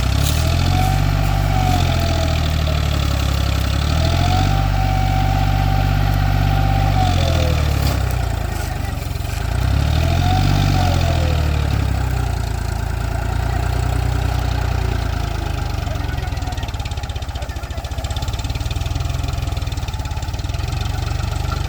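Tractor diesel engine working to pull a fully loaded sugarcane trolley, revving up and down several times and holding high revs for a few seconds before settling into a steadier run.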